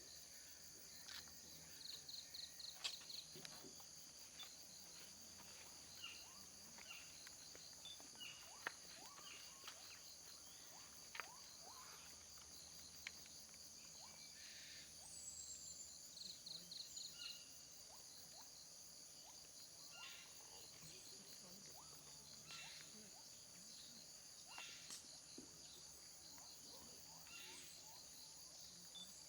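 Faint chorus of crickets and other insects, a steady high-pitched ringing with pulsing trills now and then. Scattered short bird chirps and calls sound over it, one a falling whistle about halfway through.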